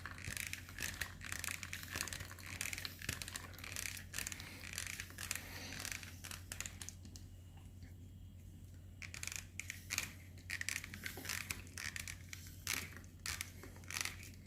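KCASA KC-COFF20 portable hand espresso maker being pumped by hand: irregular plastic clicks and crackling as hot water is forced through the ground coffee and espresso comes out.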